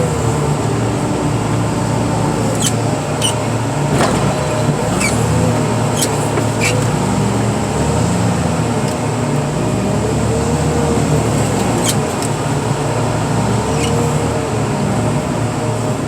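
Diesel engine of heavy car-crushing machinery running steadily, its pitch rising and falling every couple of seconds as it works under hydraulic load, with a few sharp clicks.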